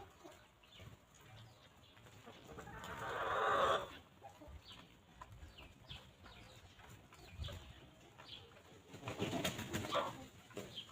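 Free-range chickens clucking and pecking among short chirps of small birds. A rustling swell builds a few seconds in and cuts off suddenly, and a brief burst of scratchy rustling comes near the end.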